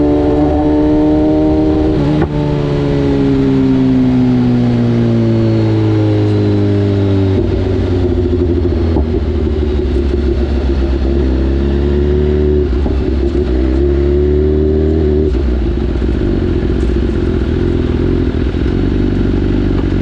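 BMW S1000RR's inline-four engine running under way, its pitch falling steadily for several seconds as the revs drop, then rising and stepping down again as the bike changes speed.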